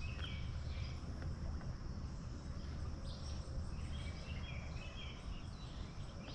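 Outdoor river ambience: high chirping from small creatures near the start and again from about three seconds in, over a steady low rumble.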